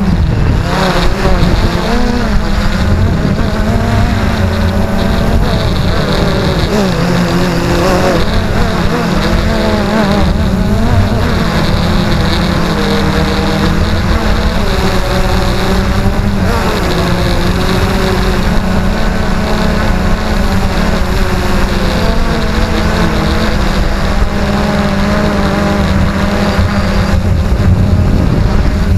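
XK Detect X380 quadcopter's motors and propellers running steadily, their pitch rising and falling as the drone holds itself against strong wind, with wind noise on the microphone.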